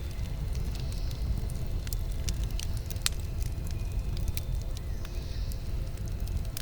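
Campfire crackling, with irregular sharp pops and snaps over a low steady rumble; one pop about three seconds in is louder than the rest.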